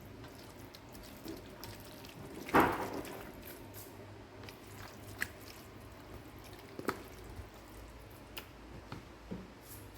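Scattered kitchen handling sounds: a few short knocks and clicks of utensils and containers, the loudest about two and a half seconds in and another near seven seconds.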